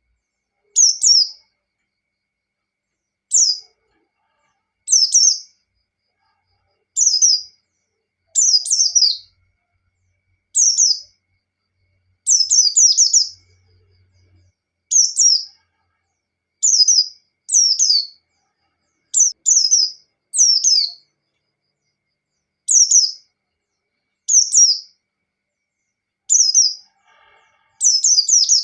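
Pleci (white-eye) singing in the ngalas style: short, high phrases that sweep down in pitch, repeated about every one and a half to two seconds with brief gaps between.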